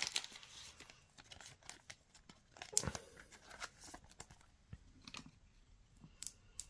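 Foil trading-card pack crinkling and tearing open, with the cards inside handled: scattered faint rustles and clicks, the sharpest about three seconds in.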